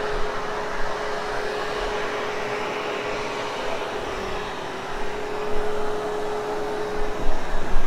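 Hoover Hushtone vacuum cleaner running steadily, its motor holding one constant whine over a rushing airflow, with a few louder swells near the end.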